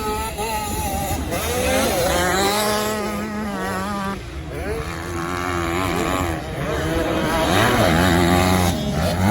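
Motocross motorcycle engines revving, their pitch rising and falling as they ride the dirt track, with more than one engine heard at once.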